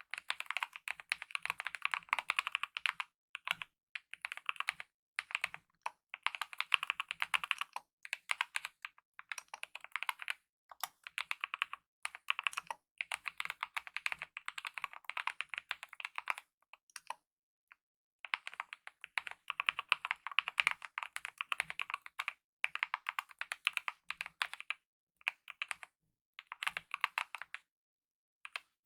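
Typing on a Kemove mechanical keyboard with lubed optical red linear switches and DSA-profile keycaps: fast runs of key clicks in bursts, broken by short pauses, the longest about two-thirds of the way through.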